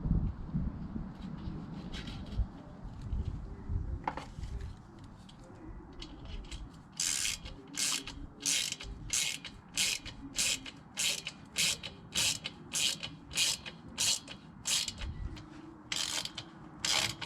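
Ratchet clicking in short, evenly spaced strokes, about one and a half a second, from about seven seconds in, after a stretch of low handling knocks and rustling.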